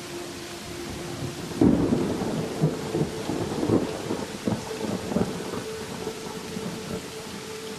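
Thunderstorm: a loud thunderclap about a second and a half in, followed by several more rumbling cracks over steady rain.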